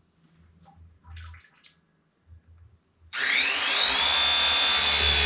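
Battery-powered pipe press tool pressing a fitting onto copper pipe: after a few faint handling clicks its motor starts about three seconds in with a whine that rises for a moment, then runs steadily under load.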